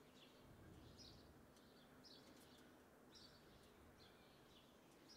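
Near silence, with faint short bird chirps repeating about once or twice a second in the background.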